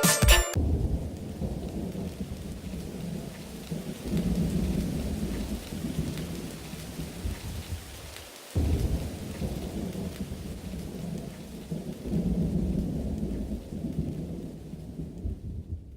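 Rain with rolling thunder, the rumble swelling about four seconds in and again near the end. The sound drops out and starts again abruptly about halfway through, then fades away.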